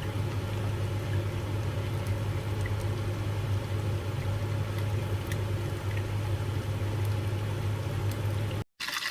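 Chicken wings shallow-frying in hot oil, sizzling steadily with scattered small pops, over a steady low hum. The sound cuts out abruptly near the end.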